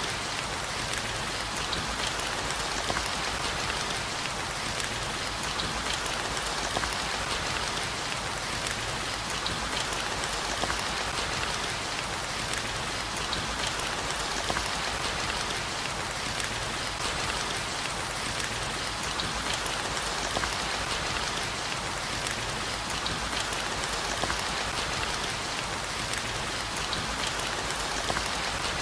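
Steady, heavy rain: a dense, even hiss, with many individual drops ticking through it.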